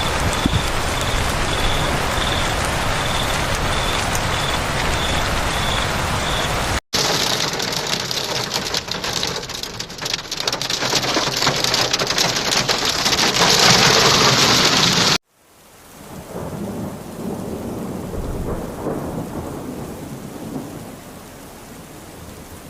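Heavy rain pelting down in a storm, heard in three clips split by abrupt cuts about seven and fifteen seconds in. The middle clip is the loudest and hissiest, and the last is quieter. A faint beep repeats about twice a second through the first clip.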